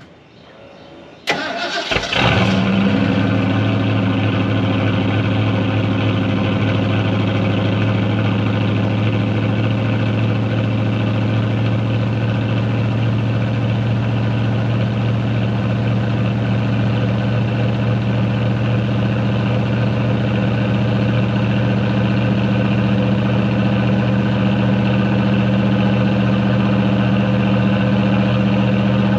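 1980 Ford Bullnose pickup's engine cold-started: it cranks briefly about a second in, catches on the first turn of the key, and settles into a steady idle.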